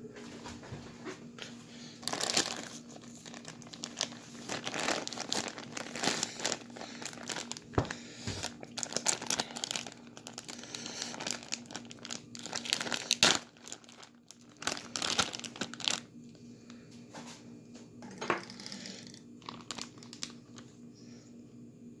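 Plastic bag crinkling and rustling in irregular bursts as it is handled, dying down to a few faint rustles for the last several seconds.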